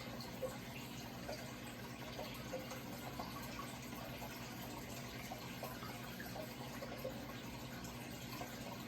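Running water trickling and splashing steadily, with small bubbly plips, over a low steady hum.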